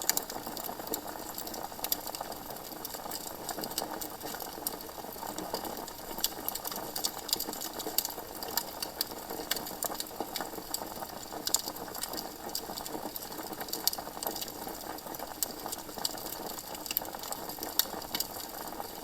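Campfire burning, its wood crackling with irregular sharp snaps and pops over a steady hiss.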